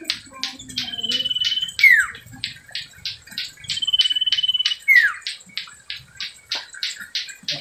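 Common iora (cipoh) calling: a held, even whistle followed by a quick falling whistle, given twice, over a steady run of short chipping notes at about four a second.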